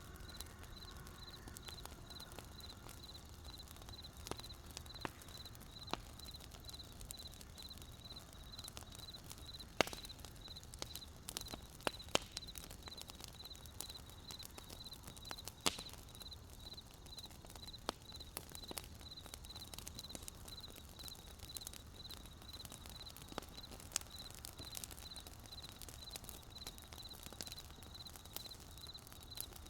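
Wood fire crackling with irregular sharp pops, a few louder ones near the middle, over crickets chirping in a steady, even pulse.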